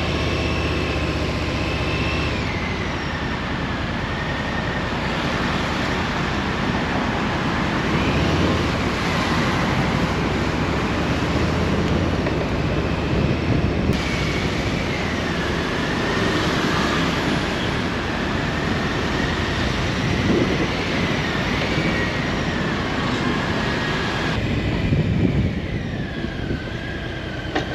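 Harley-Davidson Street Bob's V-twin engine running as the motorcycle is ridden in traffic, mixed with steady wind and road noise.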